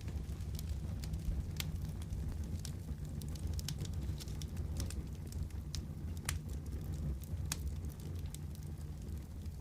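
Fireplace wood fire crackling: irregular sharp pops and snaps, several a second at times, over a steady low rumble.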